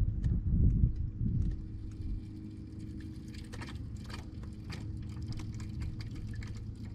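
RV fresh-water pump running continuously, a steady low hum, with scattered light clicks and knocks over it. The owners take the nonstop running for the system pressurizing or refilling the water heater after the cold-water inlet line was refitted.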